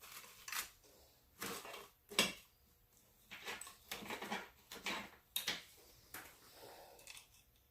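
A string of short, irregular scrapes and clicks, about a dozen over several seconds, with quiet gaps between them.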